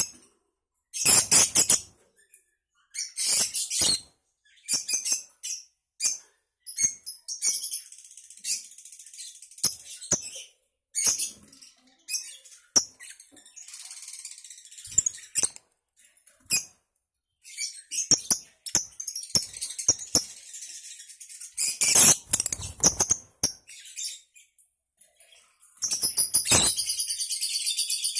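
Lovebirds chattering in loud, shrill bursts, ending in a long, fast rattling trill, the lovebird's 'ngekek'.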